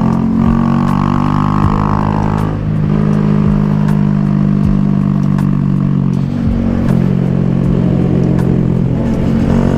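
Honda Grom engine running at steady revs under way, its pitch shifting slightly about two and a half seconds in and again about six and a half seconds in as the throttle changes through the corners.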